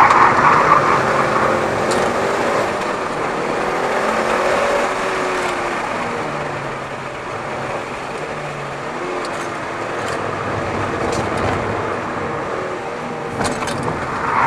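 Mitsubishi Lancer Evolution VIII's turbocharged four-cylinder engine running on track, its pitch rising and falling with the throttle, over steady tyre and wind noise. It eases off and runs quieter through the middle, and gets louder again near the end.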